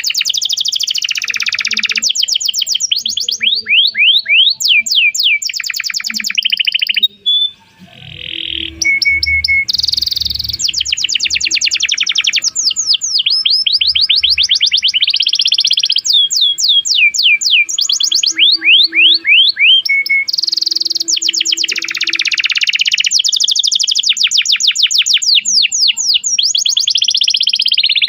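Domestic canary singing in long, fast trills of repeated sweeping notes, each run at its own pitch, with a short break about seven seconds in.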